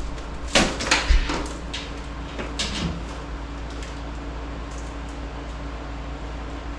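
A few sharp knocks and clatters in the first three seconds, like something being handled or set down, over a steady low hum.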